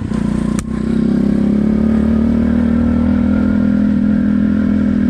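Pit bike engine running under throttle while being ridden. The revs dip briefly near the start, with one sharp click, then the engine holds a steady high pitch.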